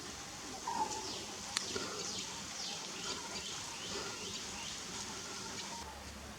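Wild birds calling in a mixed chorus: many short, high chirps sliding downward, with one sharp click about a second and a half in.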